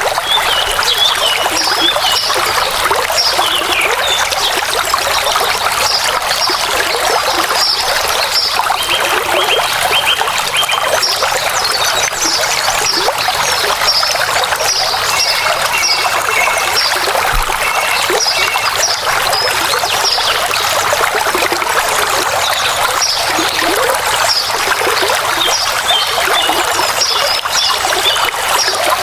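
Running water trickling steadily, like a stream over rocks, with high chirping calls in short repeated series over it.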